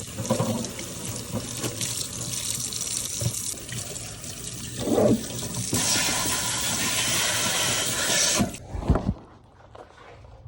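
Kitchen tap running as a dishwasher filter is rinsed under the stream, the water getting louder about two-thirds of the way through and then shutting off sharply. A thump follows just after the water stops.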